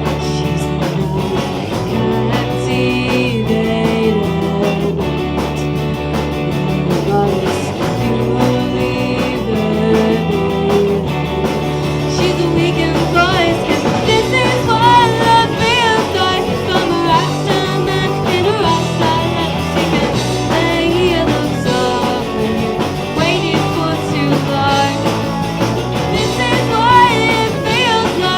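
Live rock band playing, with electric guitar and bass under a young female lead singer.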